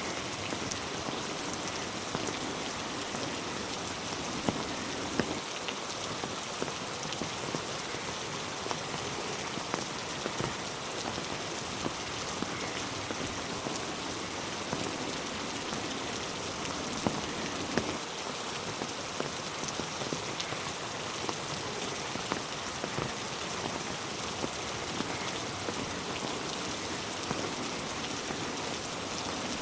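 Steady rain falling on a road and trees, a constant hiss with many single drops striking sharply close by.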